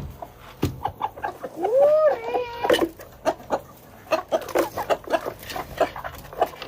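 Chickens clucking in short, rapid calls, with one longer rising-then-falling call about two seconds in.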